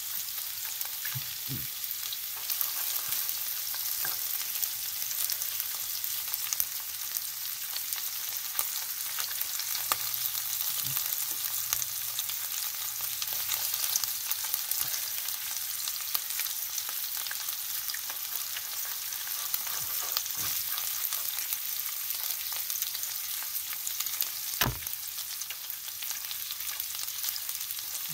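Meatballs and onion pieces frying in oil in a nonstick pan, a steady high sizzle. Scattered light knocks come through it as the meatballs are turned with a wooden stick, the sharpest near the end.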